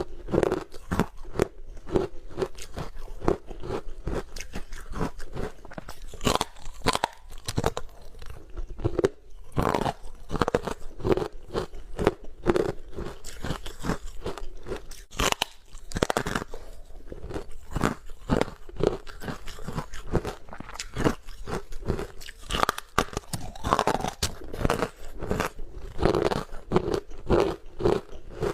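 Close-miked biting and chewing of hard frozen ice: a continuous run of sharp, irregular crunches, several a second, as the ice cracks between the teeth.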